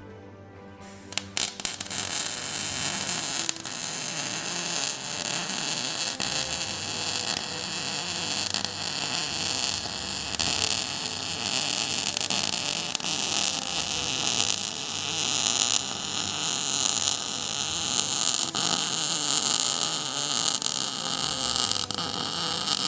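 Welding arc burning a continuous bead on a steel control-arm mount: a steady, loud hiss that starts with a few short stuttering strikes about a second in.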